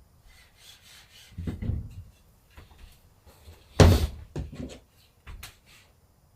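Hand-work sounds from screen plate-making: a rubbing scrape, then a sharp knock about four seconds in with a few smaller knocks after it.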